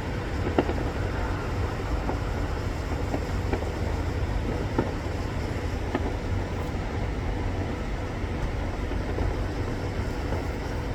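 Distant fireworks popping now and then over a steady low rumble.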